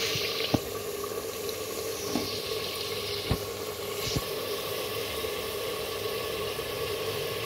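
Meat, spice paste and tomato simmering and sizzling in oily, watery gravy in an aluminium pot, with a few sharp clinks of a metal spatula against the pot in the first half.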